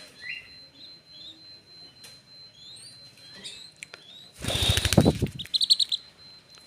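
Young green pigeon flapping its wings hard for about a second, amid short, high, rising chirps, with a quick run of high peeps just after the flapping.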